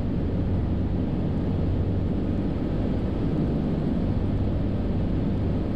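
Cessna 172's piston engine and propeller running steadily in flight: a constant low drone heard from inside the cabin.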